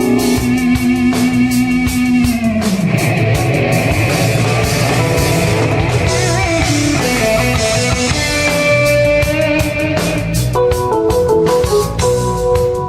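Live jazz-rock fusion band playing: busy drum kit with electric guitar and bass. A held note slides down in pitch about two and a half seconds in, and dense playing with frequent drum and cymbal hits follows.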